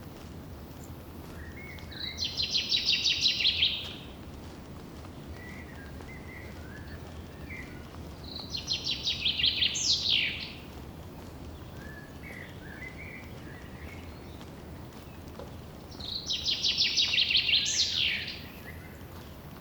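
A songbird singing three times, about seven seconds apart. Each song is a fast trill of repeated high notes lasting about two seconds that grows louder, and the later songs end in a quick falling note. Softer chirps come between the songs over a steady low hiss.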